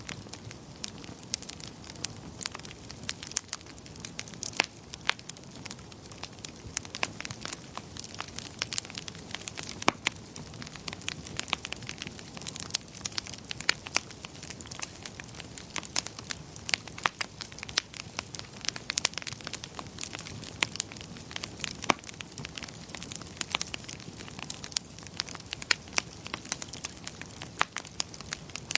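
Wood fire crackling in a fireplace: many irregular sharp pops and snaps, some louder than others, over a soft steady rush of flame.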